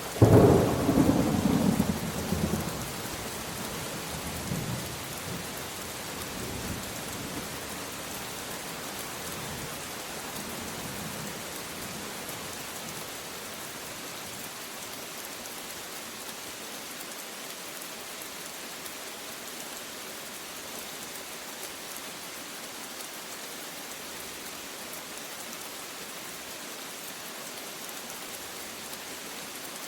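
A sudden thunderclap right at the start, rolling away in fading rumbles over the next ten seconds or so, over a steady hiss of rain.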